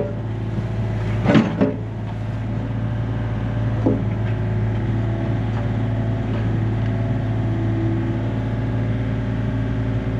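Yanmar B37 mini excavator's diesel engine running steadily, with a few sharp metal clanks about a second and a half in and again near four seconds.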